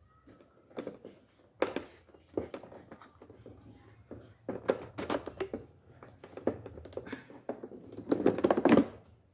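Irregular plastic clicks, knocks and rustling from hands working on a car's air filter housing and filter, with a busier burst of rattling and crinkling near the end.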